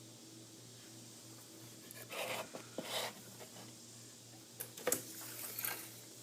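Two short spells of rubbing and scraping, about two seconds in and again near five seconds, over a steady faint low hum.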